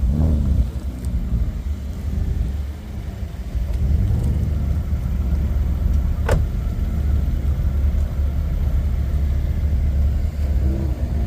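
A car engine running steadily at idle, a deep continuous hum. There is a single sharp knock about six seconds in.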